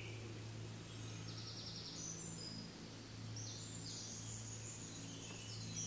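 Small birds singing in woodland: a few short, high, rapidly trilled phrases over a faint steady low hum.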